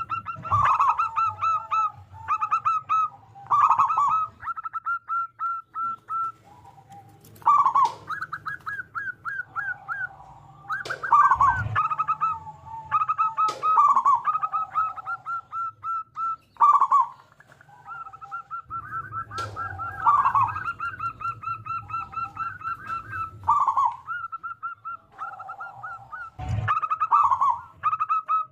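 Zebra dove (perkutut) cooing song, phrase after phrase: a quick run of short, clipped notes ending in a louder, lower coo, repeated every couple of seconds. A few sharp clicks fall between phrases.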